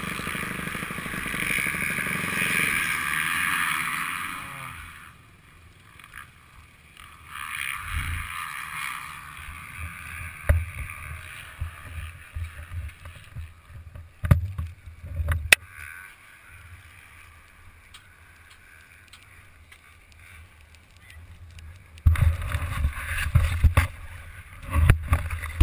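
Honda CRF250R motocross bike's engine running on a helmet-mounted camera, falling away about five seconds in. After that come low wind buffeting on the microphone and several sharp knocks, heavier near the end.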